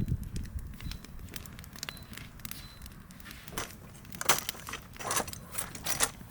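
Firewood burning, crackling with irregular sharp pops, a few of them louder.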